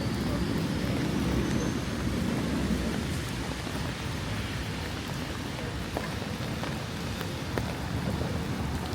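Steady rain falling, with scattered individual drops ticking close by. A low rumble swells and fades over the first few seconds.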